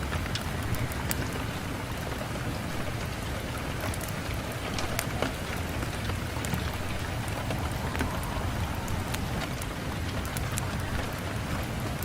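Rain falling on a window pane: a steady hiss of rainfall with many small sharp ticks of drops striking the glass throughout.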